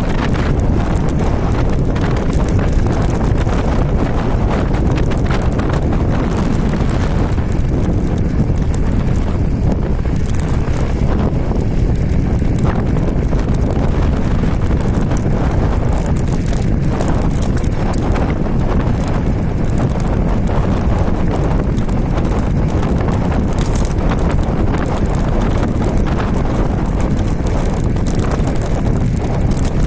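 Wind buffeting the microphone and steady road rumble from an electric scooter with a hoverboard hub motor being ridden, with many small rattling knocks as it runs over the road surface.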